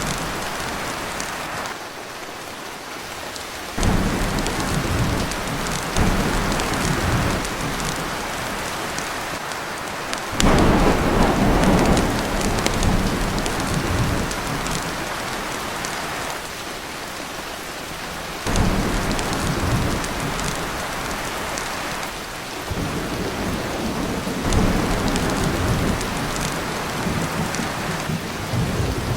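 Heavy rain pounding on a tin roof with low rolls of thunder. The downpour swells suddenly louder several times, around four, ten and eighteen seconds in.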